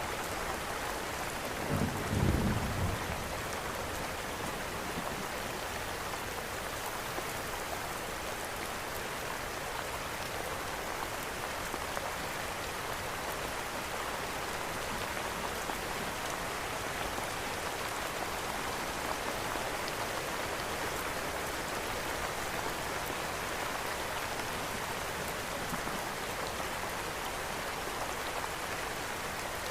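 Steady rain falling, an even hiss, with a brief low rumble about two seconds in.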